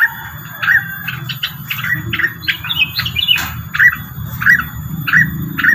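Rengganis bird calls played as a lure recording: a run of short, sharp chirps repeating about every half second, with a busier cluster a little past halfway.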